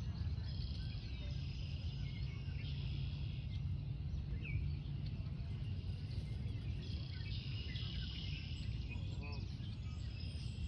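Outdoor ambience: a steady low rumble with high-pitched insect chirring that comes and goes in stretches, and a few short bird chirps.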